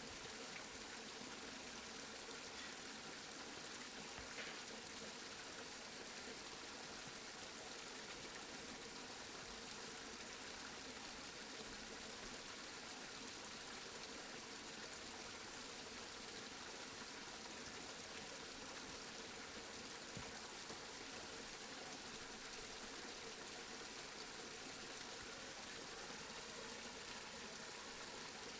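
Steady rainfall, an even hiss of falling rain without thunder.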